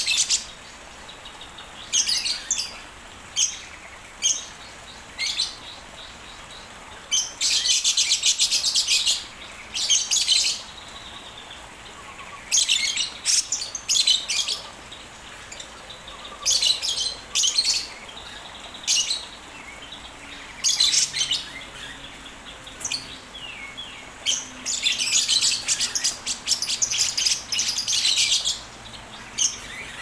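Birds chirping in repeated bursts of rapid, high chirps. Some bursts are brief and others last a second or two, with longer runs about eight seconds in and again over the last few seconds.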